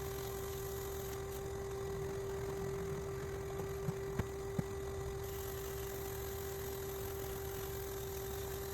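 Key-duplicating machine's electric motor running with a steady hum, with three light clicks about four seconds in.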